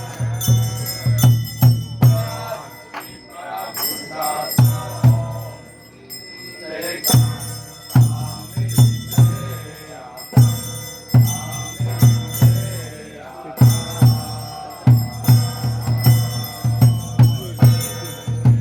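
Temple ritual music: a drum beaten in quick runs, with a hand bell jingling and ringing over it, and a voice chanting during the first few seconds. The drumming thins out briefly a few seconds in, then picks up again.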